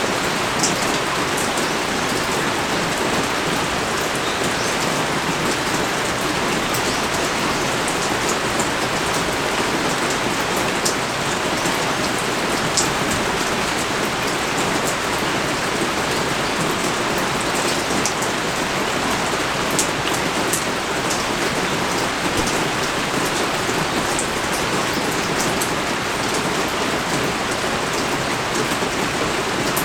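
Steady pouring rain, a dense even hiss with occasional sharper drop hits.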